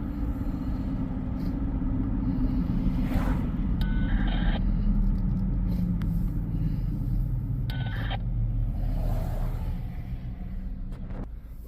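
Car on the move: a steady low rumble of engine and road noise. Two short high electronic beeps come about four and eight seconds in.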